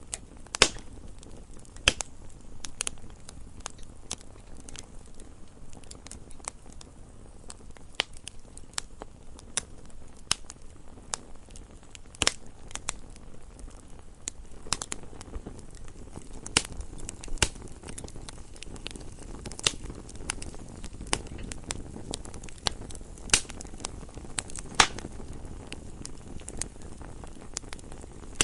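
Wood fire crackling: a steady low hiss and rumble with irregular sharp pops and snaps, a few of them much louder than the rest.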